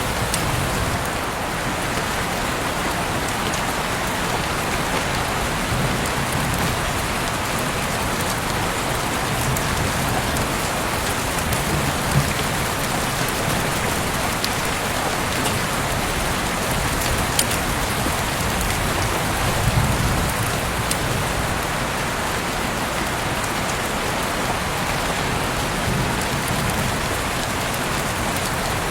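Heavy rain falling steadily, a dense even hiss with scattered louder drops ticking on a surface, heard through an open window.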